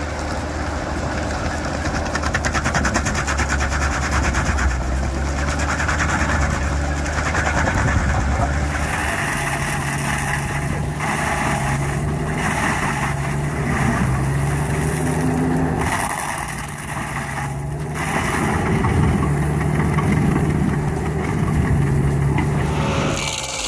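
Engine of a heavy stump-grinding machine running steadily, its note shifting several times, with sudden changes that sound like edits between shots.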